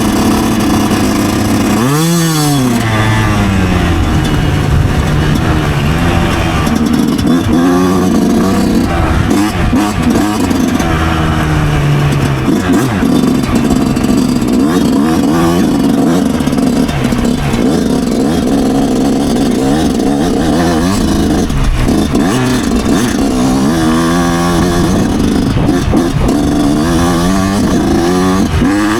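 Yamaha YZ125 single-cylinder two-stroke dirt bike engine running under load, its pitch rising and falling with the throttle: a sharp rev up and drop about two seconds in, and several more revs near the end. Heard from a helmet chin mount.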